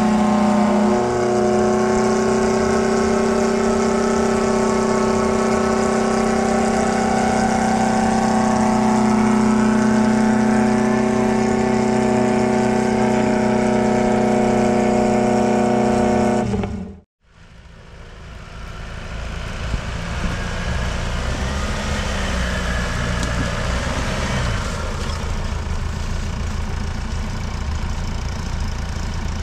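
A 4x4's engine held at high, steady revs. About 17 s in the sound cuts off abruptly, and the engine is then heard running lower and rougher.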